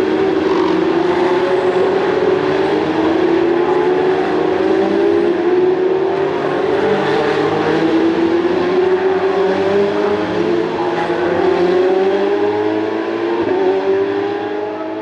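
Ferrari Challenge race car engine at full throttle, its pitch climbing in long rising sweeps that drop back at each upshift as the car accelerates through the gears.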